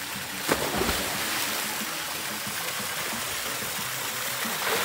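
Splash as two people jump feet-first into a swimming pool about half a second in, followed by steady churning of pool water as they swim.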